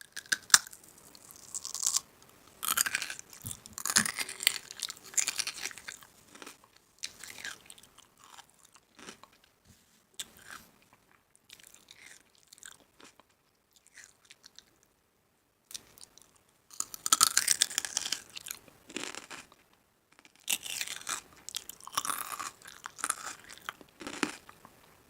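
A person biting into and chewing crunchy food close to the microphone: crisp crackling crunches in bursts of a few seconds, with short quiet pauses between bites.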